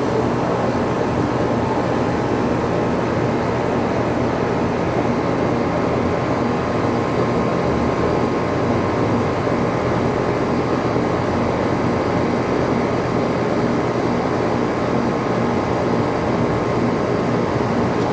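Outdoor condenser of a new 4-ton York central air conditioner running steadily just after startup: a steady rush from the condenser fan with a constant hum from its Copeland scroll compressor.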